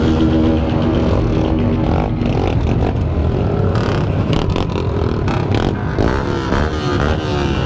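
Motorcycle engines running loudly. One holds a steady note for the first couple of seconds, then revs rise and fall near the end.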